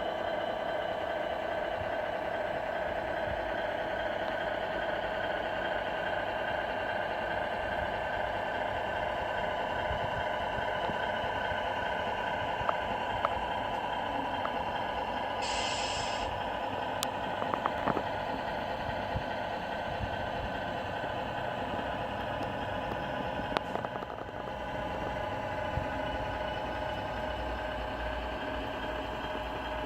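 Radio-controlled Scania R470 model truck running with a steady engine-like hum, a short hiss about halfway through, and a few light clicks.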